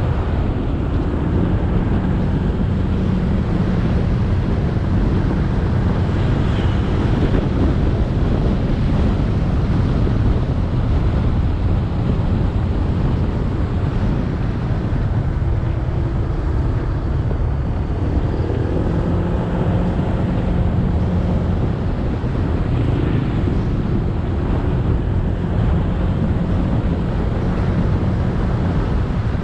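Motorcycle engine running under way, with road noise and wind on the microphone. The engine note shifts up and down with the throttle a few times, most clearly past the middle.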